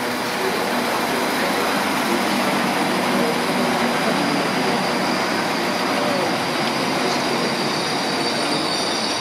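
Transport for Wales Class 197 diesel multiple unit running past on the station tracks: a steady rumble of its underfloor engines and wheels on the rails. A high squeal comes in near the end.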